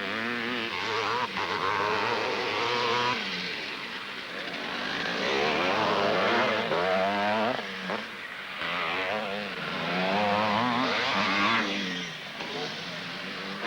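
Motocross race bikes' two-stroke engines revving up and down as several bikes pass, the sound swelling and fading repeatedly.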